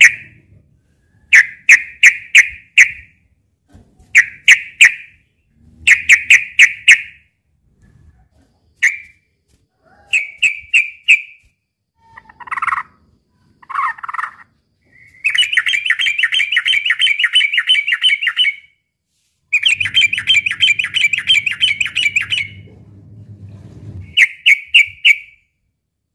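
Yellow-vented bulbul singing: short bubbly phrases of quick notes, repeated every second or two, then two longer runs of rapid chattering notes from the middle onward. A low hum runs under the second long run.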